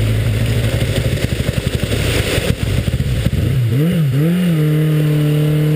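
Motorcycle engine running under choppy rushing noise from storm-force wind buffeting the microphone. About three and a half seconds in, the engine revs up and down twice, then settles into a steady, higher note.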